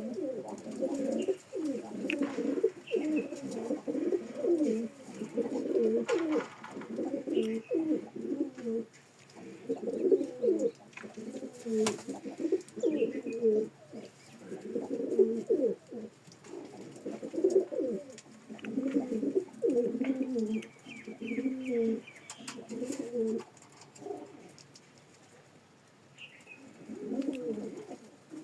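Karak pigeon cooing over and over in low, rolling phrases, with a pause of a couple of seconds near the end before it coos again. Faint, brief higher chirps come through now and then.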